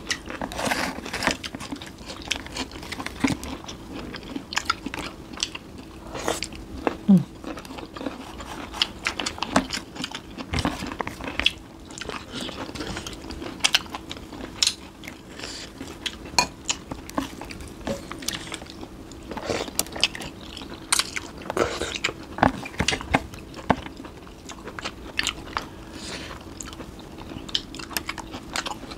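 Close-up eating sounds: two people biting and chewing food, with frequent sharp crunches scattered throughout. A steady low hum runs underneath.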